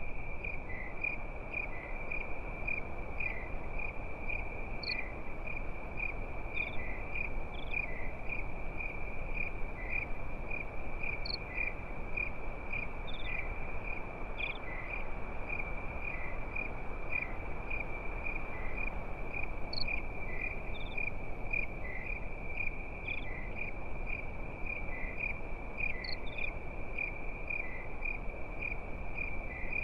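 Crickets chirping in a steady, rapidly pulsing high trill, with fainter chirps from other insects above it and a soft, even hiss underneath.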